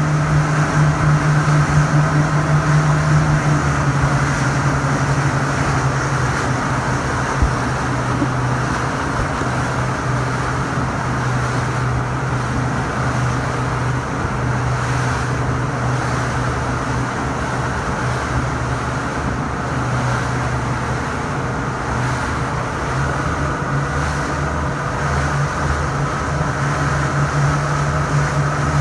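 Steady engine drone with a constant low hum. The hum eases a little after the first few seconds and builds again near the end, and there is a single short knock about seven and a half seconds in.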